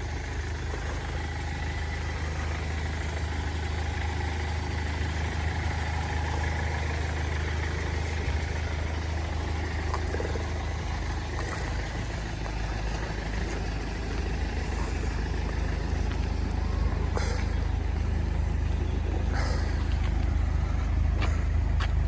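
A motor vehicle running steadily with a low engine rumble. A few sharp clicks come near the end.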